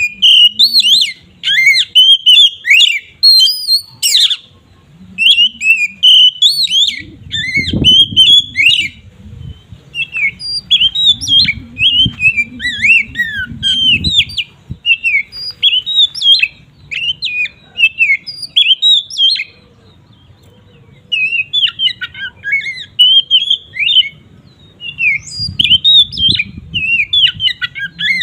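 Oriental magpie-robin (kacer) singing a loud, varied song of quick whistled and chirping notes, in runs of a few seconds separated by short pauses.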